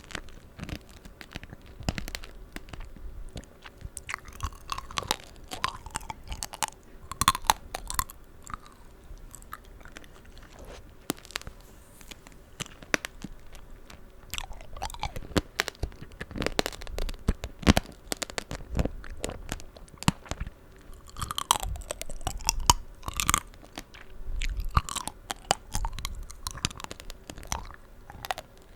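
Close-miked chewing of sugar-glazed fruit tanghulu: the hard candy shell cracking and crunching between the teeth, with wet, juicy sounds from the fruit.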